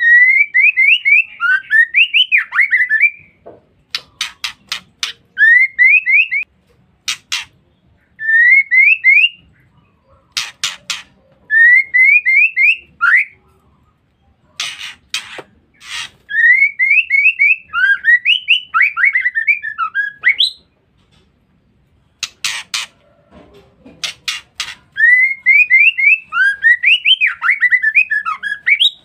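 Female white-rumped shama calling: about six short phrases of quick rising whistled notes, some running on into a falling twitter, with sharp clicks between the phrases.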